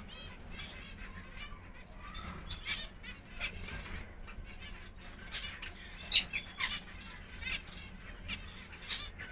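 Caged parrots chirping and squawking, short high calls scattered throughout, the loudest about six seconds in, over a low steady hum.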